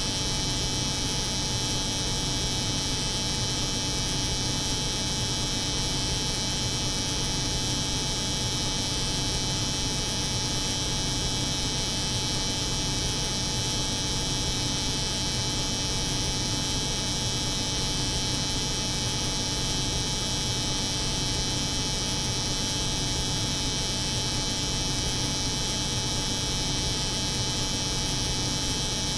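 An electric hair clipper buzzing steadily, layered with the low hum of a cold room's refrigeration.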